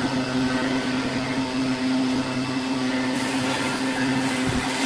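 Wood lathe running with a steady motor hum.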